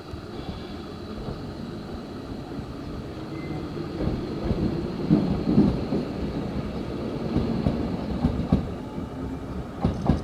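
Nose Electric Railway 3100 series electric train running past, a rumble that swells about four seconds in. The wheels knock over rail joints several times.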